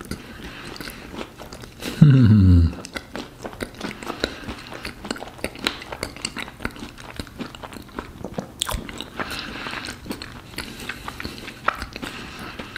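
Close-up chewing of a Schokobanane, a chocolate-coated banana on sponge cake with cream: soft mouth sounds with many small clicks and smacks. About two seconds in, a short, loud, low hum that falls in pitch.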